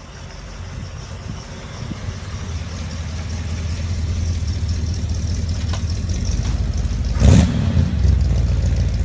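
A 1955 Pontiac Chieftain's 327 V8 burbling through dual Flowmaster mufflers as the car drives slowly up and past, the low rumble growing louder as it nears. About seven seconds in there is a brief loud rush of noise.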